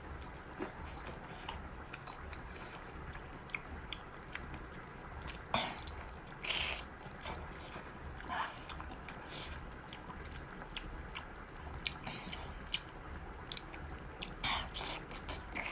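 A person chewing and biting food close to the microphone: irregular short clicks and smacks, with a few louder bites scattered through.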